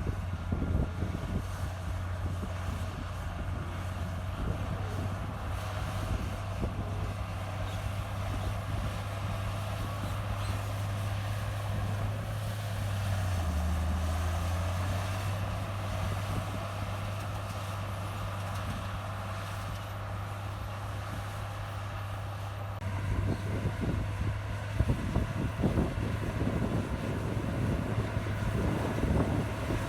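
Komatsu bulldozer's diesel engine running steadily as it works the soil, its pitch dipping briefly about halfway through; the sound gets louder and rougher for the last several seconds.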